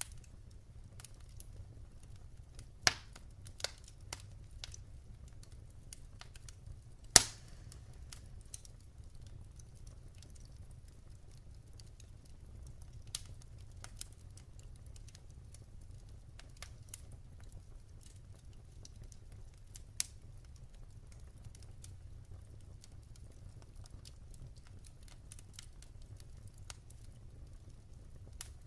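Wood fire burning in a fireplace, crackling: scattered sharp pops and snaps over a low steady rumble, the loudest pop about seven seconds in.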